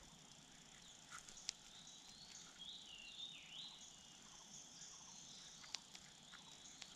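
Faint natural ambience: insects trilling steadily, with a few short bird chirps near the middle and a couple of sharp clicks.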